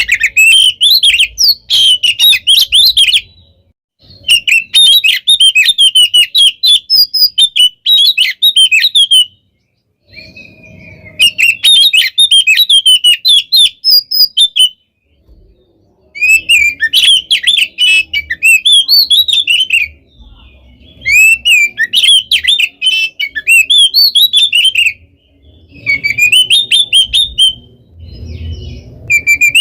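Oriental magpie-robin (kacer) in full, loud song. It delivers about six dense phrases of fast, varied whistles and trills, each a few seconds long, with brief pauses between them.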